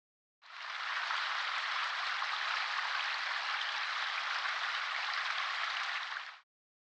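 A steady, even hiss like rain, starting abruptly about half a second in and cutting off suddenly about six seconds later.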